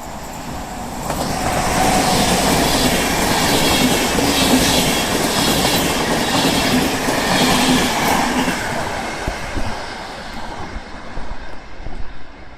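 A passenger train passing through the station: the rumble builds about a second in, stays loud with a steady hum and the clickety-clack of wheels over rail joints, then fades away after about eight seconds.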